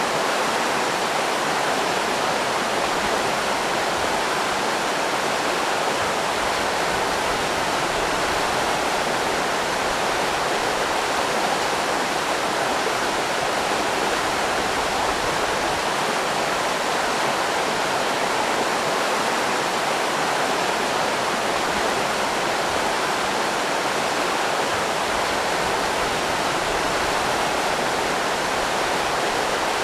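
River rapids rushing: a steady, even roar of fast-moving water.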